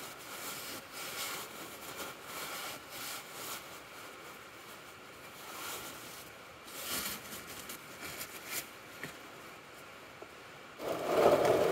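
Light scraping and clicking of hands on metal while the sump plug is refitted by hand after the oil has drained, ending in a louder muffled noise about eleven seconds in.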